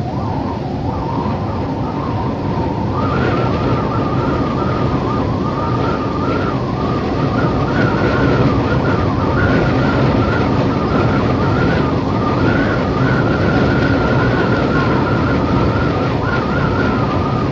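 Wind blowing steadily with a wavering, whistling howl on top that steps up in pitch about three seconds in.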